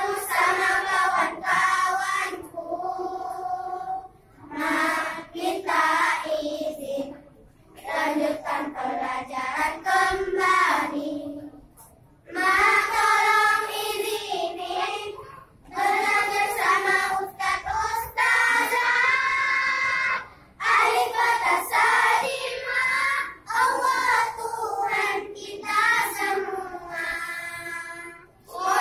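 Children's choir singing an Islamic song in phrases of a few seconds, with short pauses between them.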